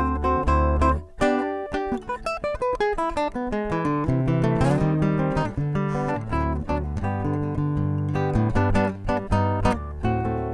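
Solo acoustic guitar played fingerstyle: a quick, lilting melody of plucked notes over a ringing bass line, with a brief break about a second in.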